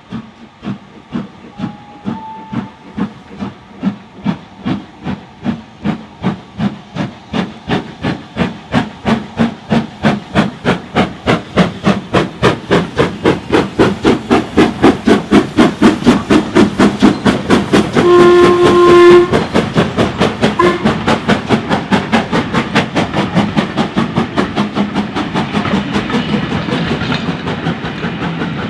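Steam locomotive working hard as it pulls away, its exhaust beats quickening and growing louder as it approaches. A short blast on its steam whistle comes about two-thirds of the way through.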